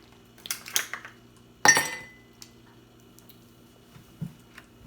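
Tableware clinking during a meal: a couple of light scrapes and taps, then one sharp, ringing clink about a second and a half in, and a soft knock near the end.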